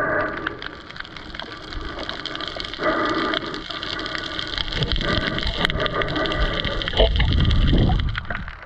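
Underwater sound during spearfishing: a steady crackle of small clicks with water rushing and gurgling. Two short droning tones come in about the start and three seconds in, and a loud low rush swells near the end.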